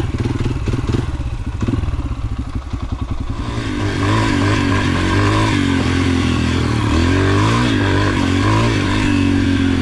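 Yamaha TT-R125's single-cylinder four-stroke engine running at lower revs for the first few seconds, then opening up about three and a half seconds in and holding higher revs, the pitch rising and falling with the throttle.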